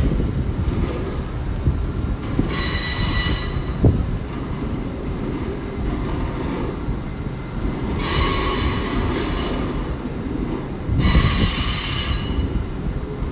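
Train wheels squealing on the rails in three high-pitched bursts, about two, eight and eleven seconds in, over the steady low rumble of a slow-moving train.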